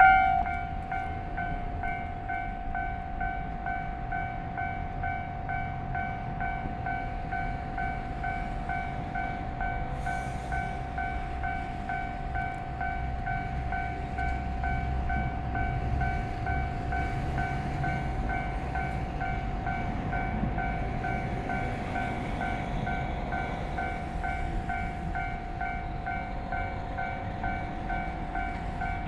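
Low rumble of a freight train hauled by a JR Freight EF210 electric locomotive on the rails, under a steady pulsing ringing tone.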